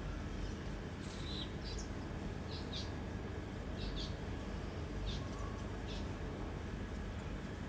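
Small bird giving short, high chirps at irregular intervals, about every half second to a second, over a steady low background noise.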